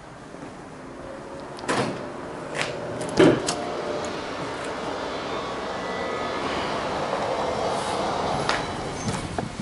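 Clicks and knocks of a car door and cabin being handled, with the loudest thump about three seconds in, like a door shutting. After it comes a steady rushing noise that slowly swells.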